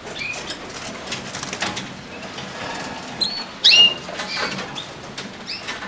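Canaries giving short chirping calls that sweep in pitch, among many quick fluttering and tapping sounds of wings and feet; the loudest chirps come a little past halfway.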